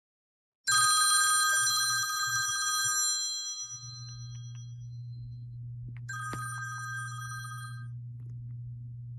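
A bell rings twice, several seconds apart, each ring fading away over a couple of seconds, with a steady low hum underneath.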